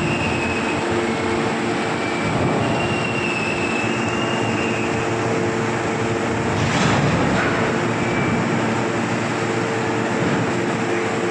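Railway wagon tippler machinery running with a steady, loud mechanical hum and brief high squeals in the first half, and a louder rush of noise about seven seconds in.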